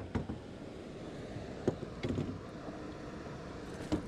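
A few scattered sharp knocks and clicks over steady outdoor background noise, from a just-landed freshwater drum being handled and struggling.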